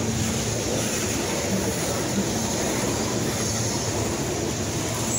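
Freight train's tank cars and loaded flatcars rolling past, a steady noise of steel wheels on rail.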